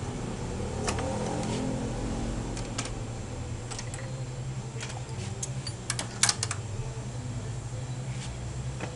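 Scattered light metallic clicks and taps of hand tools working on a scooter's engine mount to remove a seized engine bushing, with a quick cluster of sharper clicks about six seconds in, over a steady low hum.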